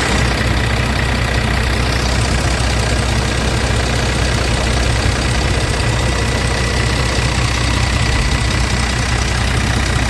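Scania R450 truck's 13-litre inline-six diesel engine idling steadily.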